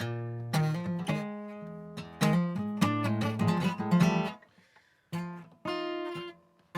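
Guitar playing a blues in F, struck chords with short stops between them and a brief break about four and a half seconds in before the chords resume.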